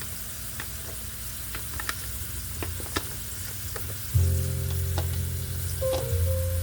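Vegetables stir-frying in oil in a pan: a steady sizzle, with sharp clicks and taps as a utensil stirs them against the pan.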